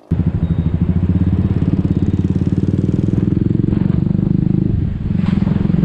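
Motorcycle engine running close to the microphone, a steady rapid pulsing that starts abruptly.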